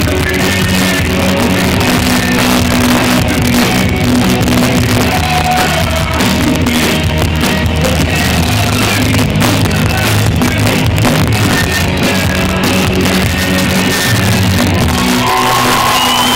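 Live rock band playing loud, with a voice singing and shouting over it. About fifteen seconds in, the band's low notes stop and whoops and shouts take over.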